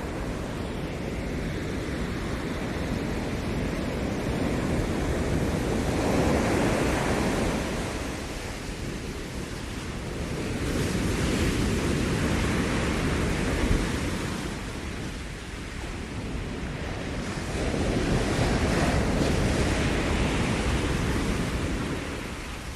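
Ocean surf breaking on the shore: a steady wash of water that swells three times, as successive waves come in and recede.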